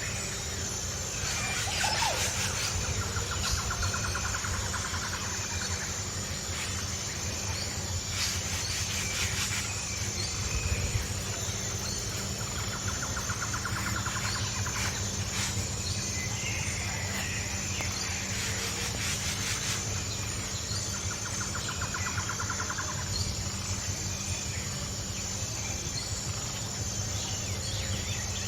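Outdoor nature ambience: birds calling, with a rapid trill that comes three times and lasts a few seconds each time, over a steady high pulsing insect chorus and a low rumble.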